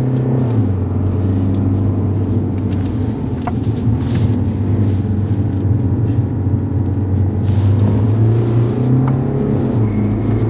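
Cabin sound of a BMW 520d G30 under way: the four-cylinder diesel engine running steadily over tyre and road noise. Its pitch drops about half a second in and rises again around eight seconds.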